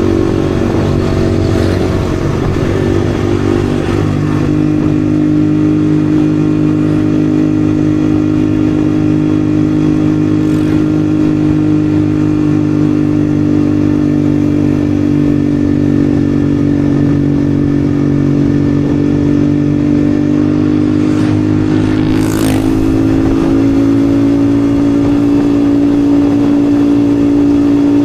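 Yamaha XSR155's single-cylinder engine running at a steady cruising speed while the bike is ridden. The engine note settles slightly lower about four seconds in, and there is a brief whoosh near the end.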